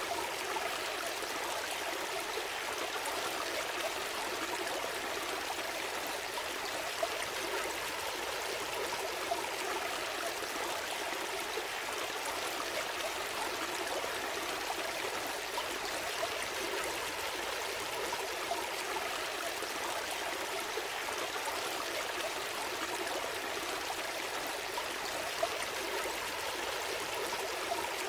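A gentle stream flowing steadily: a constant burble and trickle of water over stones, with a few small splashes standing out now and then.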